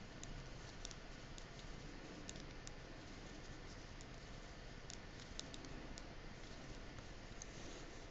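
Knitting needles clicking faintly and irregularly as stitches are worked, a dozen or so light ticks spread unevenly over a steady low hiss.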